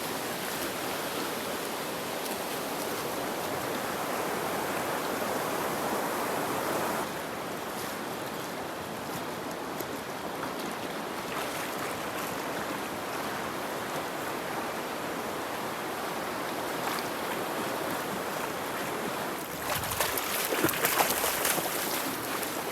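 Steady rush of a fast-flowing, swollen river. Near the end there is a louder stretch of sharp crackling ticks.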